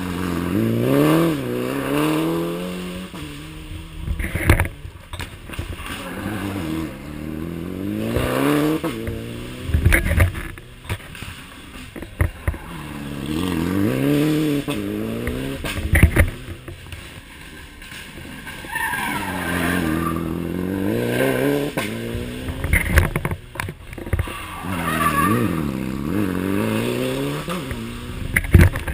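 Rally car engine accelerating hard, revving up and shifting up through the gears in about five rising runs, with sharp cracks between them and some tyre noise.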